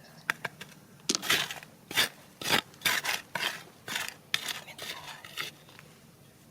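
A metal digging tool scraping and clinking against stones and gravel, about a dozen irregular strokes that stop about five and a half seconds in.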